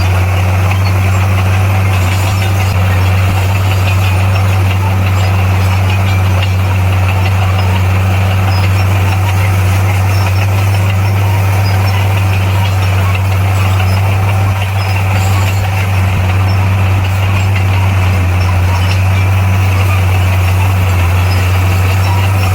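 Komatsu bulldozer's diesel engine running steadily, a deep even drone that holds constant throughout.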